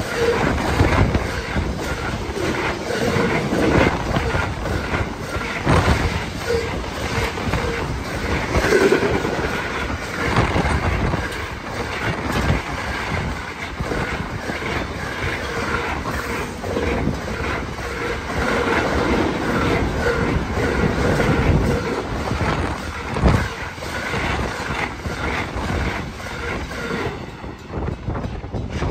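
Freight train wagons rolling past close by, the wheels clacking steadily over rail joints, with a faint steady squeal from the wheels.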